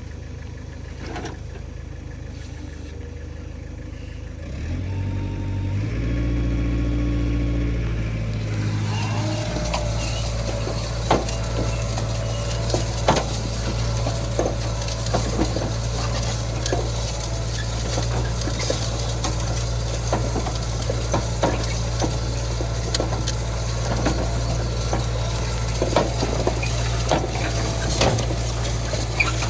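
Kubota M9000 tractor's diesel engine picks up speed about five seconds in, then runs steadily. From about ten seconds in there is a stream of irregular clicks and rattles.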